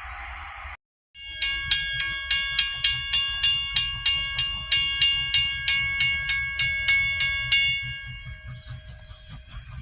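Railroad grade-crossing bell ringing at about three strikes a second, each strike ringing on with a steady metallic tone. It starts just after a short gap and stops a couple of seconds before the end.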